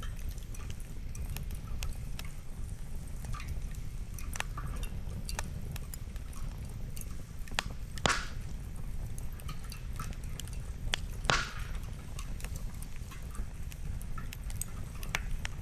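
Wood campfire crackling, with small irregular pops throughout and two louder snaps about eight and eleven seconds in, over a low steady rumble.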